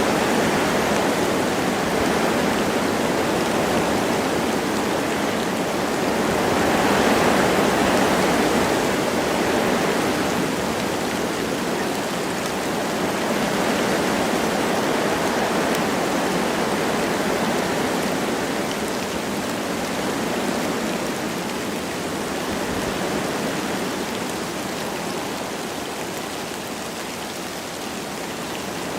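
Wind blowing through forest trees with light rain falling: a steady rushing hiss that swells in a gust about a quarter of the way in and slowly eases off toward the end.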